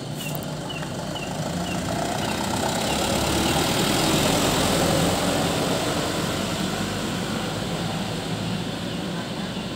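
A heavy truck passing close by, its engine and tyre noise swelling to a peak about four seconds in and then fading away.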